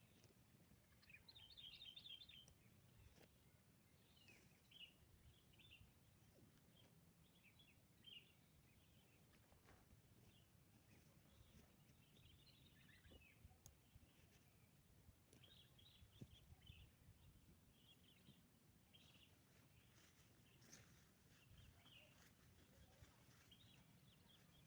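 Faint birdsong: short chirping phrases from small birds repeating on and off, over a low background hush.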